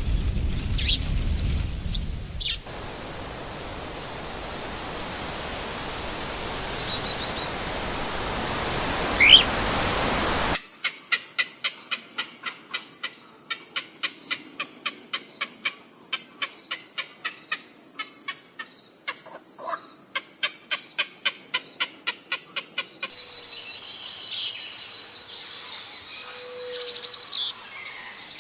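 Birds chirping and calling in short, sharp notes. In the middle come a stretch of steady hiss with a single rising chirp, then a long run of even, rapid clicks, before more bird calls near the end.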